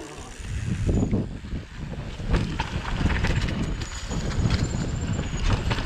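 Mountain bike riding down a rough trail section: a steady low rumble of wind and tyres, broken by scattered knocks and rattles as the bike goes over rough ground.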